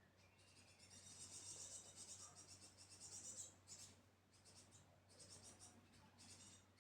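Young great tits giving faint, rapid high-pitched begging calls in runs, the longest lasting about three seconds, then shorter runs near the end.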